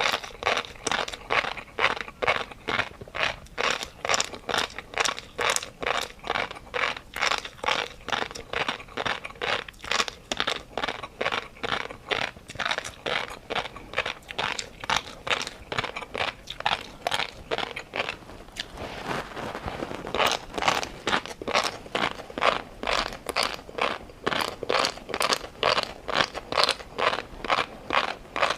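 Close-miked chewing of food, a regular crunching rhythm at about two chews a second, with a short break about two-thirds of the way through.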